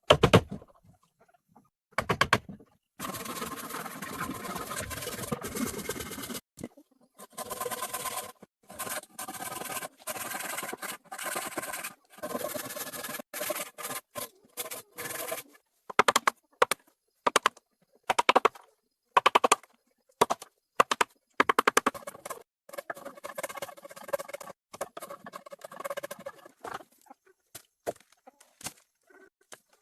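Hand tools working wood: runs of rapid scraping strokes and knocks lasting a few seconds each, separated by short pauses.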